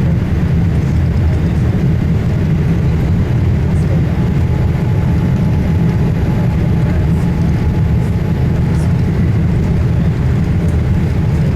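Steady, loud low rumble inside the cabin of a Boeing 787-8 Dreamliner with two General Electric GEnx-1B engines: engine and airflow noise at an even level.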